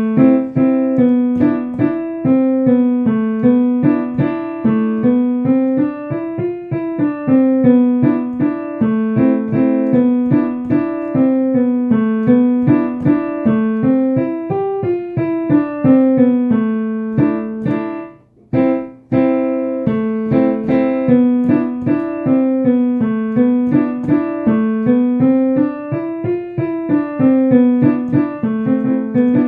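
Piano playing a simple beginner's waltz, a tune over a repeating left-hand accompaniment. It stops briefly about eighteen seconds in, then goes on.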